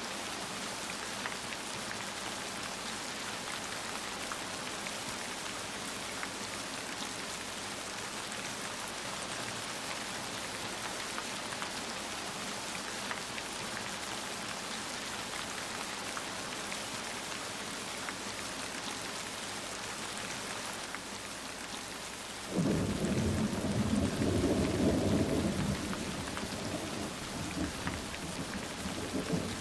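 Heavy rain falling steadily, with a clap of thunder that breaks in suddenly near the end and rolls for several seconds.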